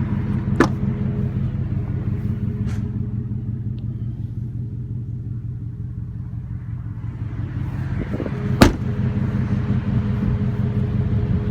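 2013 Ford F-150 pickup's engine idling steadily, with a few light clicks and one sharp knock late on.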